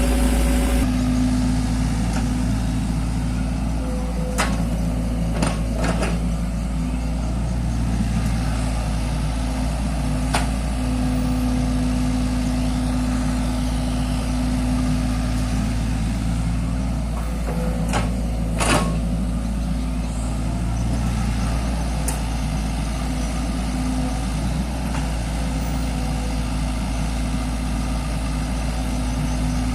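Mini excavator engine running steadily with a low hum. A faint higher whine comes and goes. There are a few sharp clanks, two of them close together about two-thirds of the way through.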